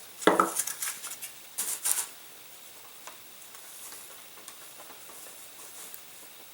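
Balsa wing halves being handled and fitted together on a workbench: a light knock, then short scratchy, crackly rustles over the first two seconds, with fainter handling noise after.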